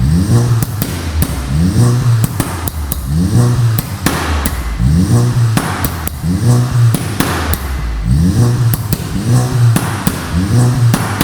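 Tuned Skoda Octavia vRS four-cylinder turbo engine with an aftermarket exhaust, revved in quick blips about once a second, each rising and falling in pitch, with sharp pops and crackles from the exhaust between the blips.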